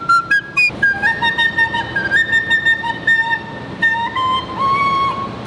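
Recorder playing a melody in held, stepping notes, with a second line of notes below it, over a steady rush of noise.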